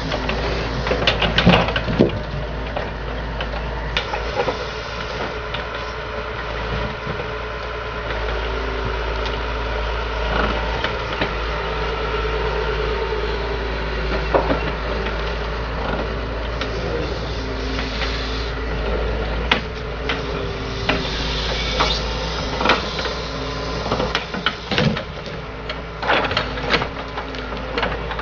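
Excavator engine running steadily, with repeated sharp knocks and clunks, most of them about a second in and in the last few seconds.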